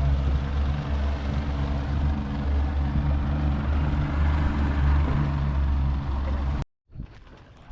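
Motorboat engine running steadily under way, a low hum under a rush of noise. It cuts off abruptly near the end, leaving much quieter outdoor sound.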